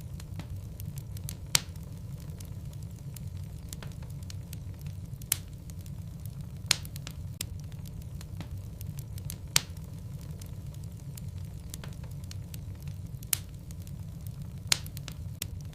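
Wood logs burning in a fireplace: a steady low rumble of the flames with sharp crackles and pops from the wood, a loud pop every couple of seconds and fainter ones in between.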